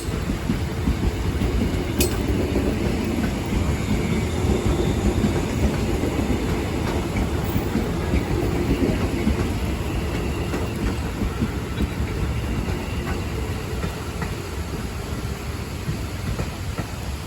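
Electric commuter train, a former JR 205 series set, running along the track with a steady rumble and wheels clicking over the rail joints. There are a couple of sharp clicks near the start, and it slowly fades toward the end.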